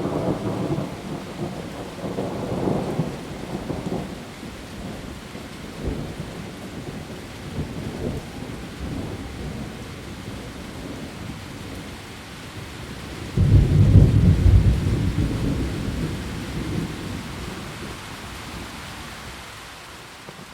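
Heavy rain falling steadily on leaves, with thunder. A rolling rumble at the start fades out by about four seconds in, and a louder thunder roll starts sharply about two-thirds of the way through and dies away over a few seconds.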